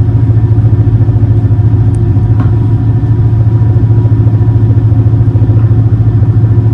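Steady, loud low drone of the Super Jet Miyajima high-speed boat's engines, heard from inside the passenger cabin while the boat is underway.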